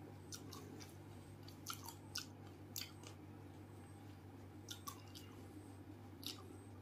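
A person chewing a mouthful of pani puri (crisp fried puri shells filled with spiced water), with scattered short wet crunches and mouth clicks.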